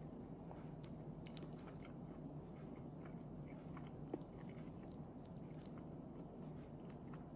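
Chewing a nori-wrapped tuna mayonnaise rice ball (onigiri): faint mouth clicks and soft chewing over a steady background hum, with one sharper click about four seconds in.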